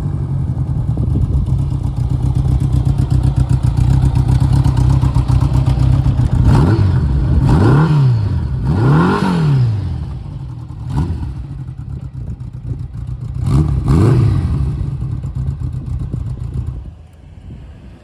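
Honda GL1200 Gold Wing's flat-four engine running steadily, then revved in several quick blips that rise and fall in pitch, the last pair close together. The engine sound drops away suddenly about a second before the end.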